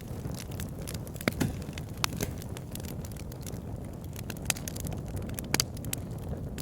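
Wood logs burning in a fireplace, crackling with irregular sharp pops, a few louder than the rest, over a low steady rumble of the flames.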